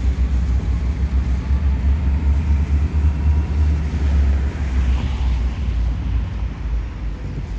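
Freight train with its diesel locomotive passing close by: a steady, heavy low rumble.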